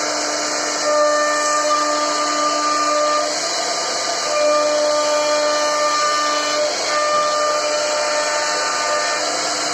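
CNC wood router carving a wooden board: a steady high hiss and hum with a whine whose tones switch on and off every second or two as the bit cuts.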